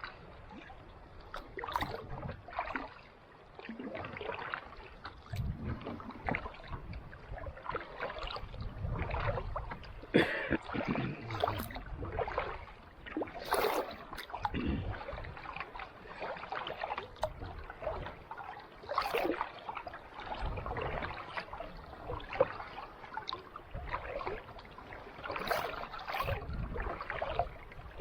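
Kayak paddle strokes in calm sea water: irregular splashes and drips as the blades dip and lift, with no engine or voice.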